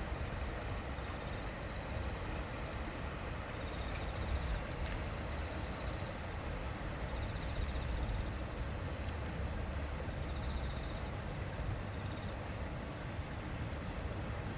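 Shallow river babbling steadily, a continuous rush of water with a low rumble underneath. Faint high trills come and go every few seconds.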